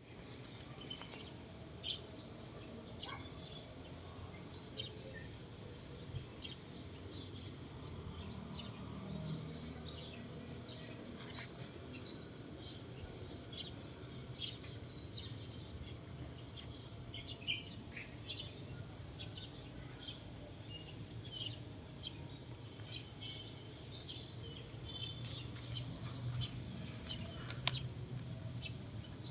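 Birds chirping over and over: short, high, quick chirps, one or two a second, with a low steady rumble underneath.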